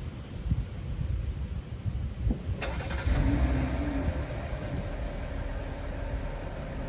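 Car engine starting about two and a half seconds in, with a sharp click at the start, then settling into a steady idle.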